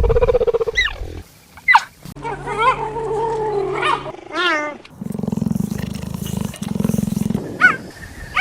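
Wild animal calls: low growls and roars, broken by shrill cries that sweep up and down in pitch.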